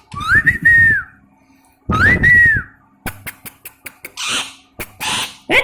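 Pet parrot calling: two loud whistles that rise and then hold, then a run of sharp clicks and harsher squawk-like calls with short upward glides.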